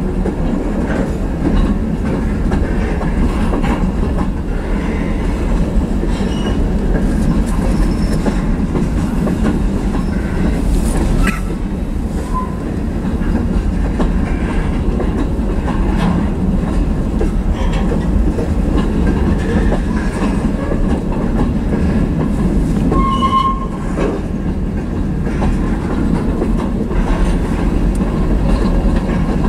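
Covered hopper cars of a freight train rolling steadily past, their wheels clicking over the rail joints. Two short high squeals cut through, one about halfway and one later on.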